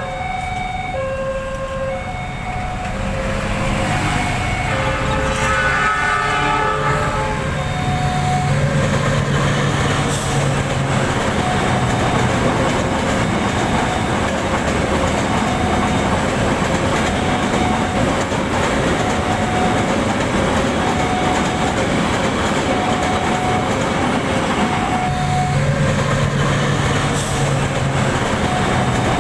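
Fuel tank train passing over a level crossing, its wheels clattering on the rails, while the crossing's electronic warning bell rings a steady alternating two-tone pattern throughout. The locomotive's horn sounds about five seconds in, as the train noise builds.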